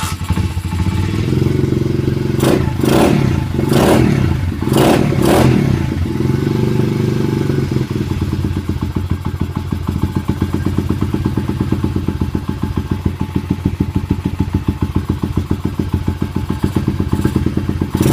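Dirt bike engine, just kick-started cold on the choke, running with several loud bursts in its first few seconds, then settling into a steady, fast-pulsing idle.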